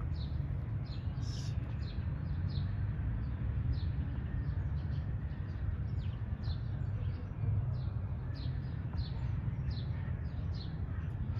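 Small birds chirping over and over: short, high, falling chirps about twice a second, over a steady low rumble.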